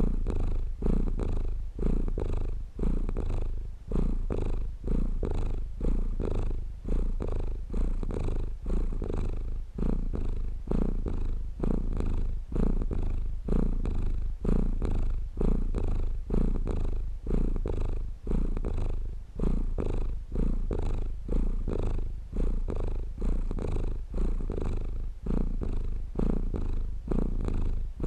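Domestic cat purring continuously, a low rumble that swells and fades in a steady rhythm about once a second.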